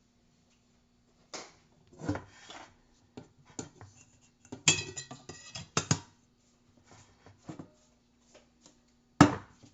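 Stainless steel whistling tea kettle being handled: irregular metallic clinks, rattles and knocks. A dense clatter with a little ringing comes around the middle, and one sharp knock comes near the end.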